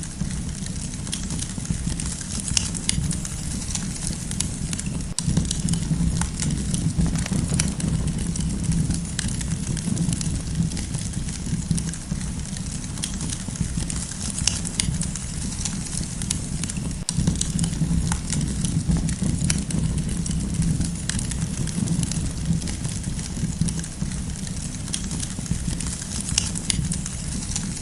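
Wood campfire crackling: frequent small sharp pops and snaps scattered irregularly over a steady low rumble of burning.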